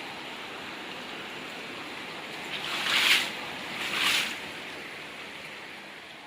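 Heavy rain and flood water making a steady hiss, with two short, louder rushing swells about three and four seconds in. The sound fades gradually near the end.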